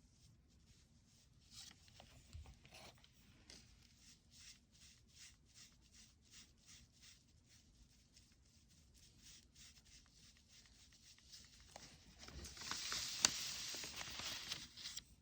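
Faint paintbrush strokes on paper, about two a second, then a louder rubbing of about three seconds near the end.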